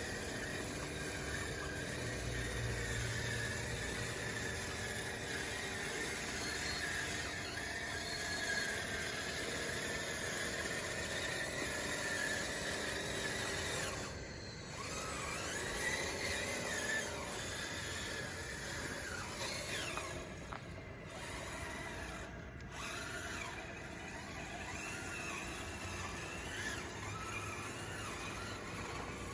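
Radio-controlled model bulldozer working, its motors giving a steady whine. In the second half, several whines rise and fall in pitch.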